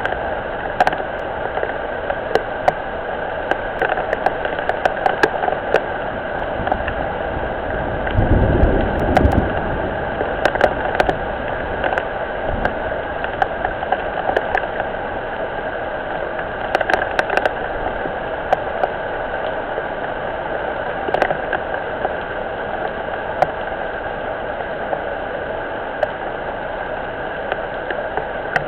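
Rain falling on a pond, a steady hiss with scattered sharp drips, heard through a low-quality webcam microphone. About eight seconds in, a low rumble rises for a second or so and fades.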